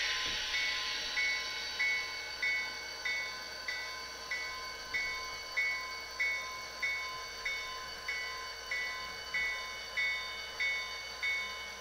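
Digitally sampled diesel locomotive bell from the sound decoder of an HO-scale GP40-2 model, ringing steadily at about three strikes every two seconds over the locomotive's idling engine sound. A hiss fades out in the first second.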